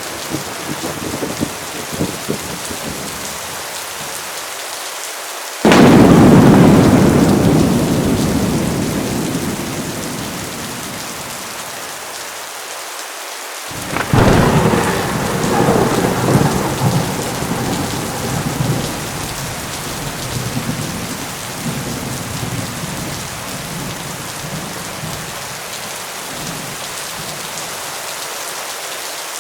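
Thunderstorm: steady heavy rain hissing throughout, with a sudden loud thunderclap about six seconds in that fades away over several seconds, then a second clap about fourteen seconds in that rolls on as a long uneven rumble.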